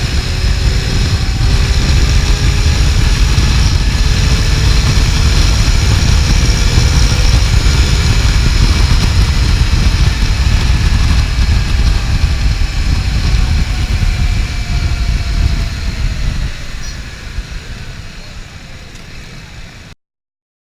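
Wind buffeting the microphone with engine and road-traffic noise while riding through traffic, with engine pitches rising and falling faintly. The heavy wind rumble eases off about three-quarters of the way through, and the sound cuts off abruptly near the end.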